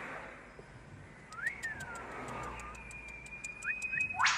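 Birds whistling. One note rises and then slides down, another is held steady, a few short notes rise, and a sharp call sweeps upward near the end. Under them runs a faint high ticking, about four ticks a second.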